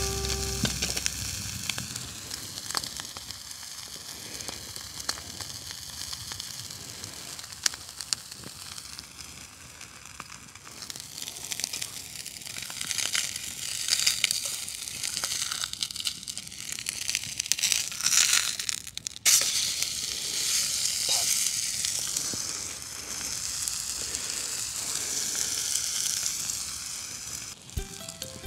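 Beef burger patty sizzling as it fries in a carbon steel pan over a small wood fire, a steady hiss with scattered pops of spitting fat, swelling louder in the middle stretch.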